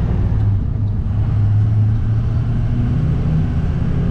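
Vehicle engine running while driving. Its steady hum drops in pitch at the start and rises again about three seconds in, as with a change of speed or gear.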